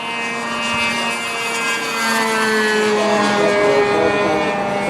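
Polaris XL RC seaplane's motor and propeller running at full throttle, its drone sliding slowly lower in pitch about two seconds in as the plane passes by; the throttle is stuck at high.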